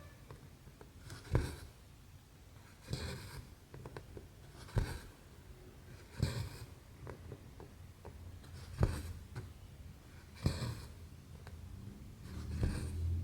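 Needle poking through 11-count cross-stitch canvas, each click followed by a short scratchy swish of thread drawn through the fabric. It repeats about every one and a half to two seconds, seven times.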